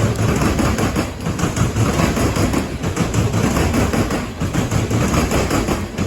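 Coal train rolling past: a steady rumble and clatter of wheels on rail, with the sound easing slightly about every second and a half as the cars go by.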